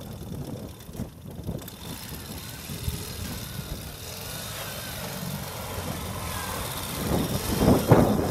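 Ural sidecar motorcycle's flat-twin engine running as it spins donuts in snow, getting much louder near the end as the bike swings close.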